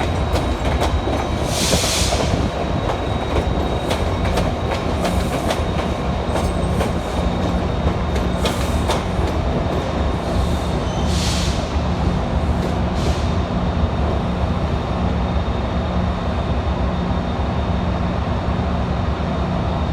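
A train running along the track: a steady rumble with frequent clicks of the wheels over rail joints and a few brief high-pitched wheel squeals.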